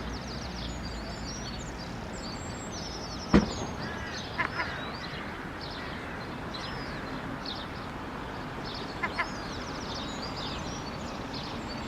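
Birds chirping over a steady outdoor background noise: many short high chirps and trills throughout. There are brief lower paired calls twice, and one sharp click or knock about three seconds in.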